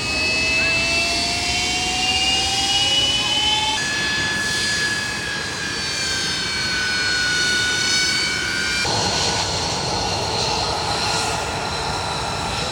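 Harrier jump jets' Rolls-Royce Pegasus turbofans running just after start-up: a loud jet roar with several high whining tones, one rising slowly in pitch over the first few seconds. The tones shift abruptly about four and nine seconds in.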